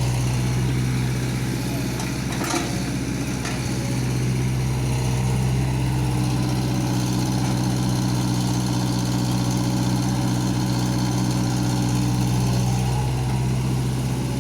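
An engine idling steadily with a low, even hum. There is a brief click about two and a half seconds in.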